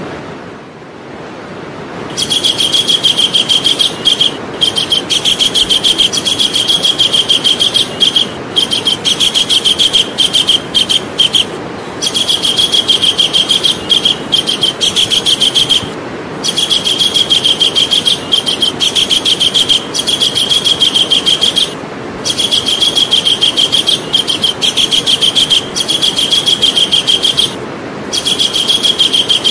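Javan kingfisher giving its shrill, rapid trilling call in long runs, stopping briefly every few seconds and starting again. The first run begins about two seconds in. There is a steady background hiss.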